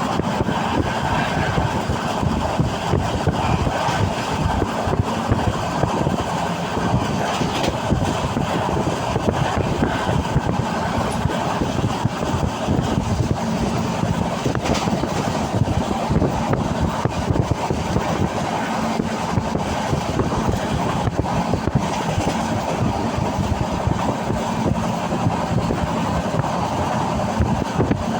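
Steady running noise of a passenger train in motion, heard from on board: wheels on the rails and the carriage moving.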